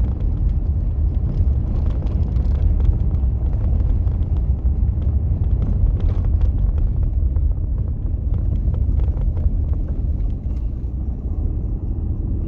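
Steady low rumble of vehicle road noise, with faint scattered ticks above it.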